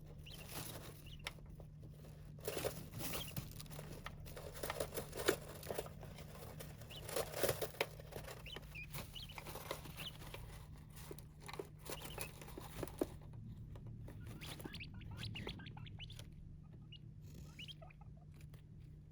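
Small pet birds pecking and scratching in a sand tray: quick, irregular pattering and crunching of grit, busiest in the first two-thirds and thinning out near the end.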